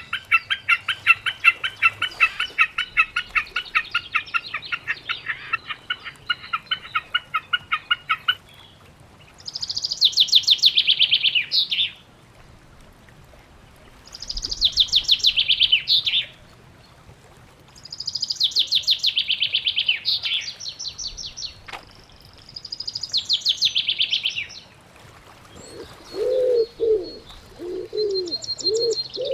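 Songbirds calling: a run of rapid repeated chirps lasting about eight seconds, then four bursts of fast trills that fall in pitch, a few seconds apart. Near the end a dove joins with low repeated coos.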